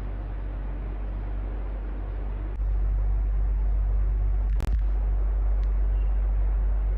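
Electric fan running steadily: an even airy rush over a low hum. About two and a half seconds in, the hum gets louder, and a single sharp click comes a little past halfway.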